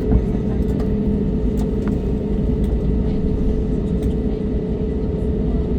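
Steady rumble of a jet airliner's cabin with the engines and air conditioning running, and a steady hum on top.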